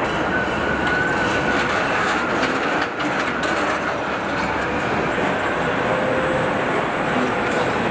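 Steady factory-floor machinery noise from a truck assembly line, with faint held whines and scattered clicks and clanks.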